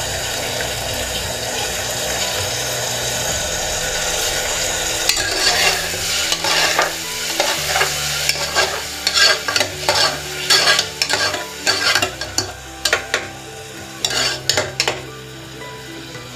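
Chopped onion and tomato sizzling in hot oil in an aluminium pressure cooker. From about five seconds in, a metal spoon stirs and scrapes against the pot in quick, irregular strokes.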